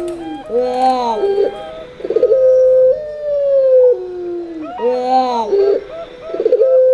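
Puter pelung (ringneck dove) and perkutut (zebra dove) cooing together. There are long held coos that drop a step in pitch, alternating with quick clusters of rising-and-falling coo notes. The pattern repeats about every four seconds.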